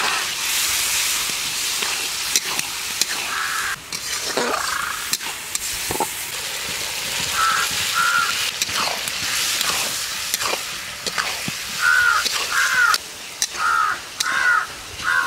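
A spice masala with tomato and peas sizzling in a metal kadai while a metal spatula stirs and scrapes against the pan, with sharp clicks. Crows caw repeatedly over it, loudest and most frequent near the end.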